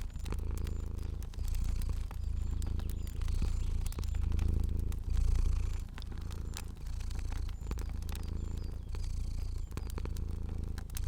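Domestic cat purring in rhythmic cycles of about a second each, with scattered sharp crackles from a fire.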